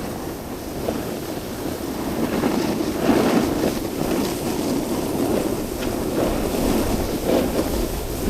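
Wind buffeting the microphone over the hiss and scrape of a snowboard sliding across snow, swelling in surges several times.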